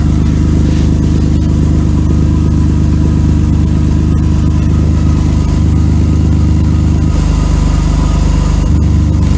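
Mercedes-Benz W124 300E straight-six idling with a loud exhaust leak, kind of like a lawnmower: a section of the exhaust pipe ahead of the resonator has rotted through and needs replacing.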